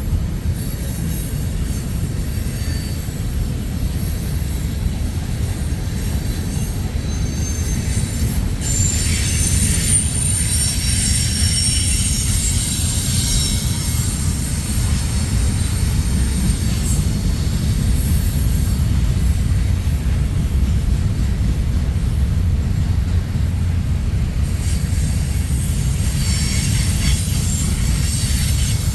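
Freight train cars rolling past, a steady low rumble on the rails with high-pitched wheel squeal coming and going, strongest from about nine to sixteen seconds in and again near the end.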